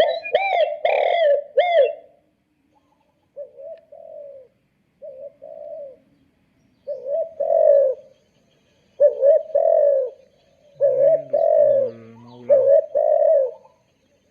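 Recorded dove cooing played through a DIY hunting bird caller's small speaker, repeating in short groups of coos with brief pauses between them. A lower droning note sounds under the coos for about a second and a half near the end.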